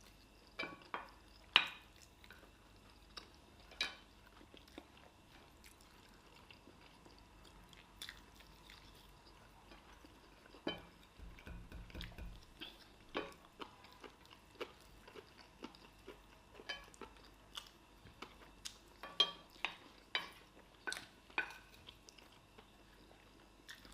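Someone eating: scattered sharp clicks and clinks of cutlery against dishes, with chewing. A short low rumble comes about eleven seconds in.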